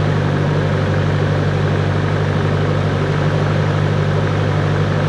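Cessna 140's small piston engine and propeller running at a steady, unchanging drone.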